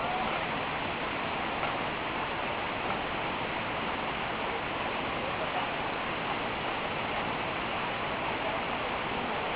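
Steady rushing noise that does not change in level, with no engine note.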